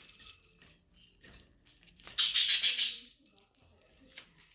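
A short, loud rattle of rapid pulses, lasting under a second, about two seconds in.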